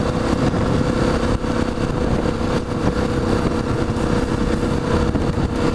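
Motorcycle riding at a steady speed: the engine's even hum under a heavy rush and buffeting of wind on the microphone.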